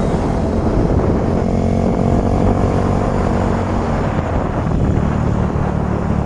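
Vehicle engine running steadily with road noise while driving on a mountain highway: a continuous low drone.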